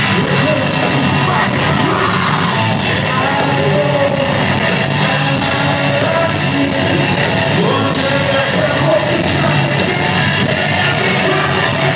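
Loud live heavy metal band playing, with a continuous wall of distorted guitars, bass and drums under yelled singing.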